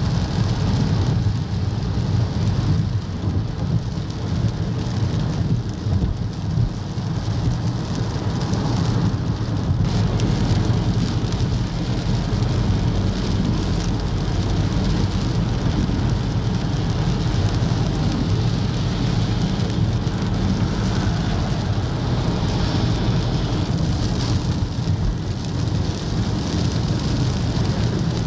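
Heavy rain falling steadily, a continuous hiss over a constant low rumble.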